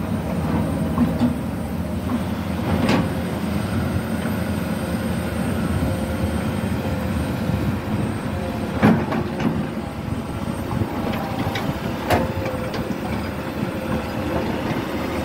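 Komatsu PC200 hydraulic excavator working, its diesel engine running steadily under load. Three sharp knocks come through, spread a few seconds apart, the second the loudest.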